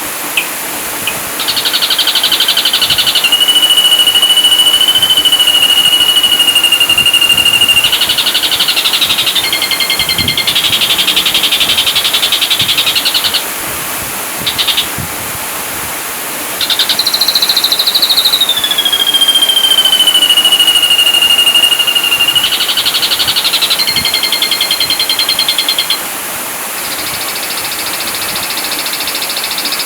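Ashy drongo song: fast buzzy trills alternating with long drawn-out whistles, each held for several seconds and sliding slightly down in pitch, with a short break about halfway through.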